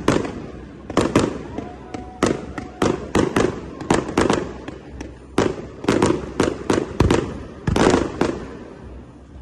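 Fireworks display: aerial shells bursting in quick, irregular succession, about twenty sharp bangs, at times several a second, each with a short echoing tail.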